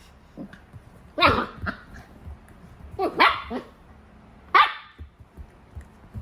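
Goldendoodle puppy barking: a few short, high barks spaced a second or two apart, with smaller yips between them.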